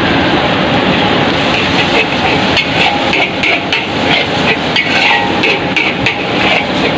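Metal spatula scraping and clanking against a wok while mee goreng is stir-fried, in quick repeated strokes of about three or four a second starting about a second and a half in, over a steady hiss.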